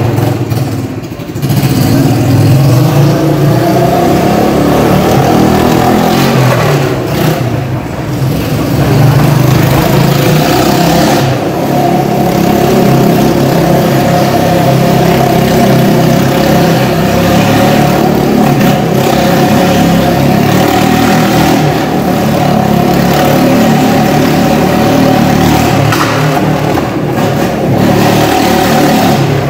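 Motorcycle engine revving, rising and falling in pitch at first, then running at a steady note from about a third of the way in as the bike circles the wooden wall of the drum.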